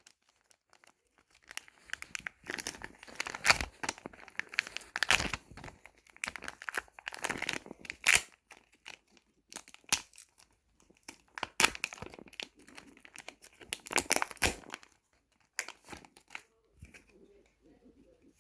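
Paper crinkling and tearing by hand in irregular bursts as handmade Pokémon cards are unwrapped and handled; the crackling thins out near the end.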